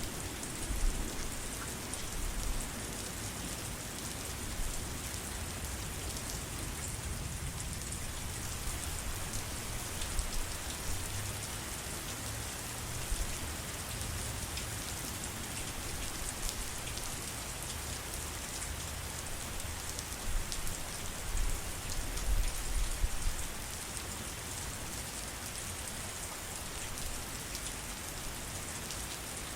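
Steady rain falling, a continuous hiss with fine scattered drop ticks, and irregular low thumps that come and go, heaviest about 20 to 23 seconds in.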